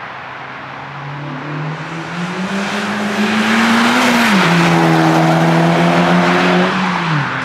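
Acura Integra Type S (DE5) turbocharged 2.0-litre four-cylinder accelerating past through its stock exhaust. The engine note rises, drops once in pitch at a gear change about four seconds in, pulls on at its loudest, then falls away near the end.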